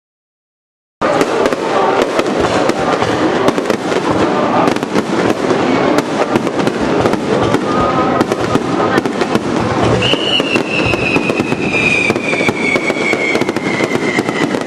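Fireworks display heard at close range: a dense, continuous crackling and popping of many bursting shells, starting abruptly about a second in. About ten seconds in a long whistle joins and slowly falls in pitch.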